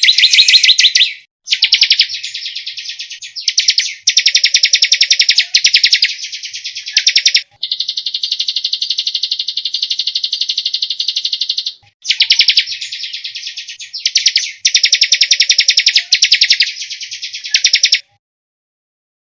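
Songbird singing a loud, dense run of fast repeated high notes in trills of a second or two, with one long even trill of about four seconds in the middle. The phrase sequence comes round again after it, and the song cuts off near the end. This is the rapid-fire 'tembakan' style of song used as a master recording for cage birds.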